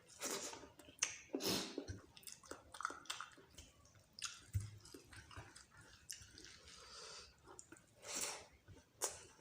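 Close-up chewing of dal bhat with meat: irregular wet smacks and clicks of the mouth working a soft, wet mouthful, some louder than others.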